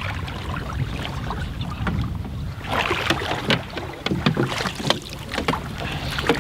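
Water splashing and short knocks against a boat as a big sturgeon is handled at the side, most of it in the second half, over a steady low rumble of wind on the microphone.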